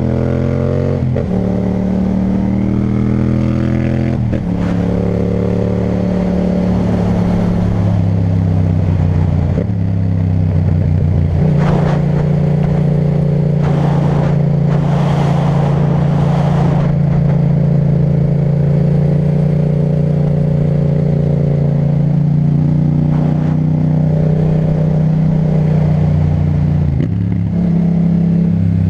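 Yamaha MT-07's parallel-twin engine running through an Akrapovic titanium exhaust while riding. The engine note steps in pitch several times in the first dozen seconds, holds a steady cruise for about fifteen seconds, then changes again near the end. A few short rushes of noise come midway.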